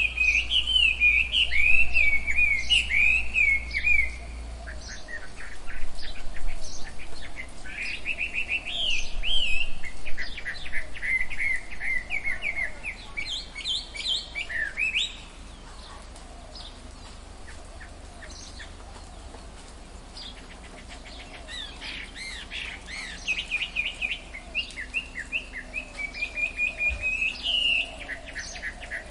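Songbirds in a tropical forest chirping in quick repeated series of short, high calls, with a quieter pause of several seconds midway before the chirping picks up again. A low rumble lies under the opening seconds.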